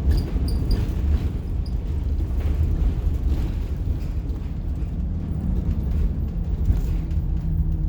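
Cabin sound of a 1990 Blue Bird All American school bus with its rear-mounted diesel engine running: a steady low rumble with light rattles. About five seconds in, a steady hum joins the rumble.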